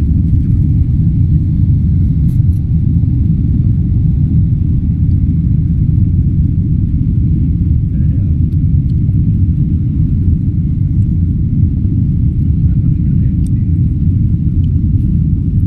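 Airplane's steady low rumble around takeoff, loud and even throughout with no rise or fall in pitch.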